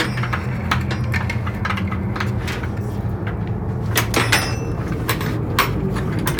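Metal clicks and clunks of a tie-down's E-track fitting being worked into an E-track rail, about eight sharp knocks spread through, the loudest a little after the halfway point, over a steady low hum.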